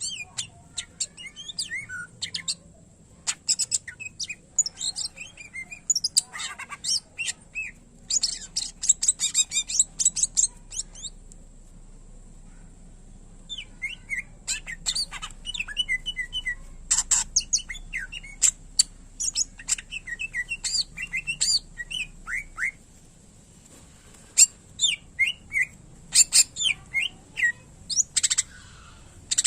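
Cucak ijo (greater green leafbird) singing a fast, varied song of chirps, whistles and trills in bursts, with a pause of about two seconds near the middle.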